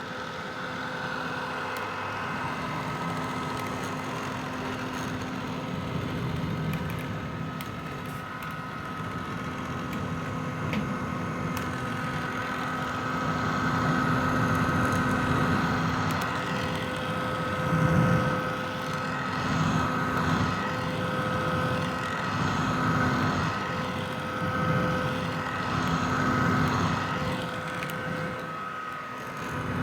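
Vintage hair dryer running steadily: a rush of blown air over the motor's hum and fan whine. In the second half the loudness swells and eases every couple of seconds.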